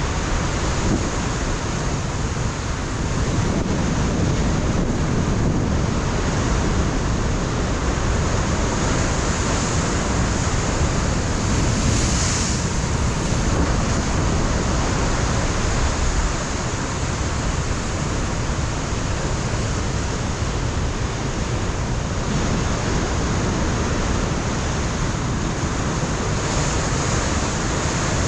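Ocean surf breaking against a rocky shore, a continuous roar of water with gentle swells, and wind buffeting the microphone.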